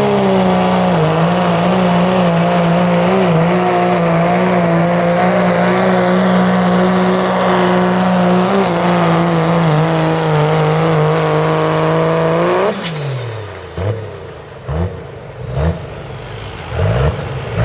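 Diesel 4WD pickup truck engine held at high revs under load while pulling the sled for about twelve and a half seconds, then cut off suddenly as the pull ends, falling in pitch, followed by a few short revs.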